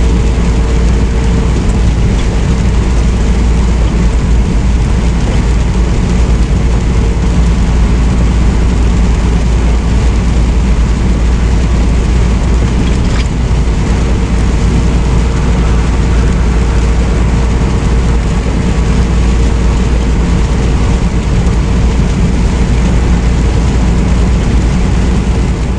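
Semi truck running at highway speed, heard from inside the cab: a steady, loud engine drone with road noise.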